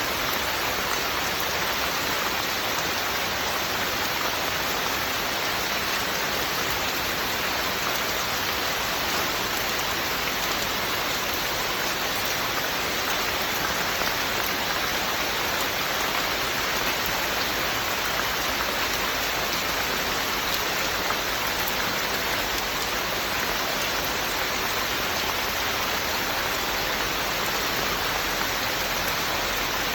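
Steady rain, an even hiss of falling rain and drops hitting surfaces, with no distinct events.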